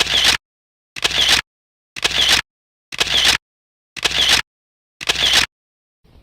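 A short, identical sound effect repeated six times about once a second, with dead silence between each.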